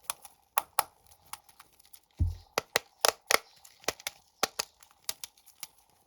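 Plastic snack packaging being handled and torn open: irregular sharp crinkles and crackles, with a dull thump a little over two seconds in.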